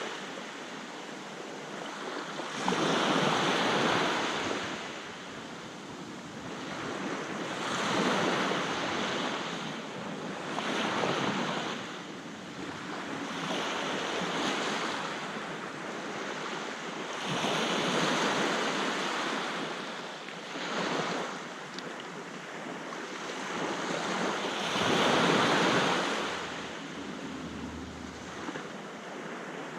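Sea waves breaking and washing up a beach, swelling and falling back every few seconds, with wind buffeting the microphone.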